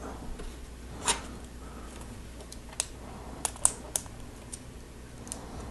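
Lego plastic pieces clicking as they are handled and pressed together: scattered sharp clicks, with a quick cluster of three about three and a half seconds in.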